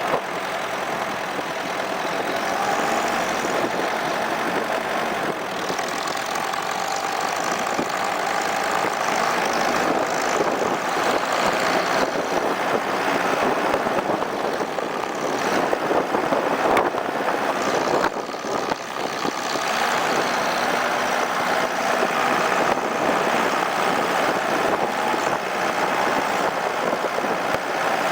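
Opel Monterey SUV driving slowly through snow: the engine runs steadily under road and wind noise, with a few knocks from the body or suspension over bumps.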